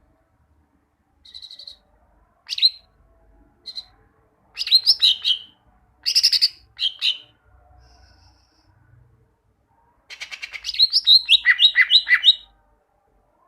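Cucak ijo (greater green leafbird) singing: short bursts of rapid high chirps and sweeping whistled notes with pauses between, ending in a long run of quick repeated falling notes.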